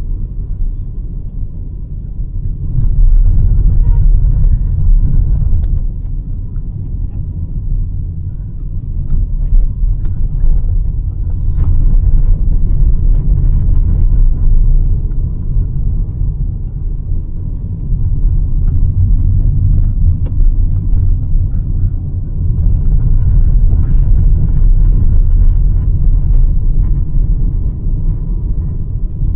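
Hyundai Verna 1.5-litre turbo petrol car on the move: a deep engine and road rumble that swells louder in several stretches of a few seconds each.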